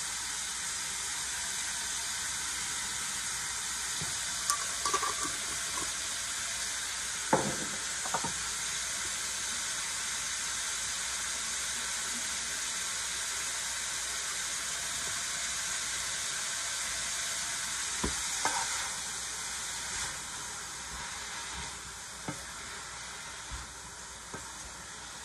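Shredded cabbage frying in a large metal pot: a steady sizzle, with a few knocks scattered through it. The sizzle eases off a little near the end.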